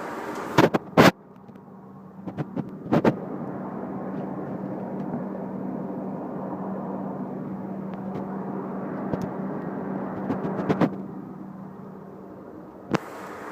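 Steady in-flight cabin drone of an Airbus A380 with a low hum, heard inside the lavatory. Sharp clicks and knocks from handling fittings come in clusters: the loudest about a second in, more around three seconds, nine to eleven seconds, and once near the end.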